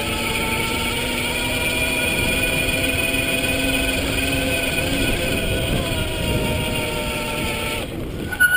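Electric motor of a converted Schwinn S-25 mountain bike whining steadily under power, its pitch rising a little and then easing, over tyre and wind rumble. The motor cuts out just before the end, followed by a short high squeal as the brakes are applied.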